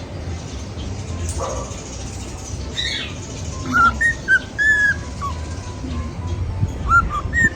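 Pet cockatiel whistling: a couple of faint chirps, then from about four seconds in a string of short, clear whistled notes, some sliding up or down.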